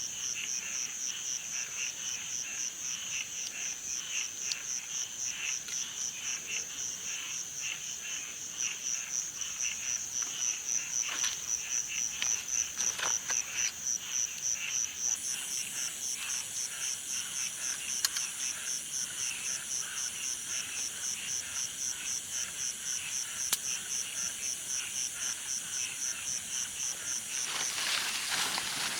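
Night chorus of calling insects and frogs: a steady, high, rapidly pulsing trill over lower pulsing calls. A couple of faint clicks, and a brief rustle near the end.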